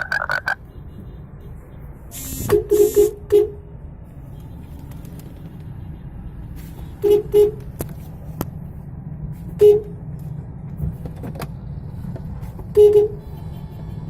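Steady low hum of road traffic, broken by short car horn honks: a quick run of toots about two seconds in, a double toot around seven seconds, and single toots near ten and thirteen seconds.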